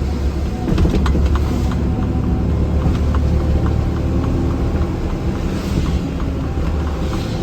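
Steady engine drone and road rumble inside a moving vehicle's cab, with faint, rapid, regular ticking.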